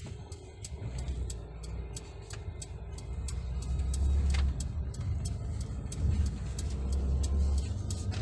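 Cabin sound of a Mercedes-Benz GLA 200 on the move: low engine and road rumble from its 1.3-litre turbocharged four-cylinder, swelling from about a second in as the car pulls away and gathers speed. A regular ticking runs through it.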